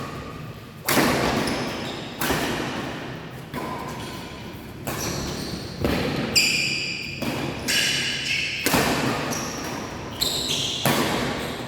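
A badminton rally in an echoing sports hall: about ten racket strikes on the shuttlecock, roughly one every second or so, with sneaker squeaks on the court floor in the second half.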